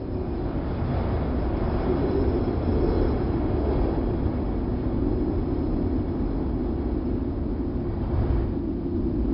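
Wind sound effect: a steady rush of wind with a deep rumble, swelling over the first couple of seconds and again near the end.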